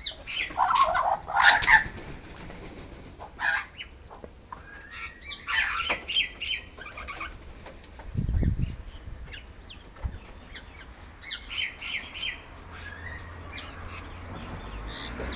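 A flock of birds calling in short, sharp bursts, with wingbeats as they land and take off. There is a low thump about eight seconds in.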